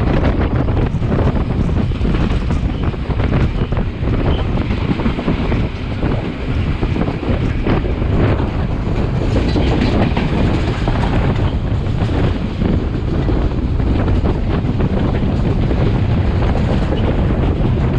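Sri Lanka Railways passenger train running at speed, its wheels clattering over the track in a steady stream of irregular knocks, with wind buffeting the microphone held out of the carriage window.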